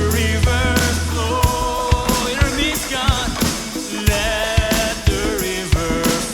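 Worship band playing a song with drum kit hits, keys and a wavering sung melody; a deep low sustained tone drops out about a second and a half in, leaving the drums and melody.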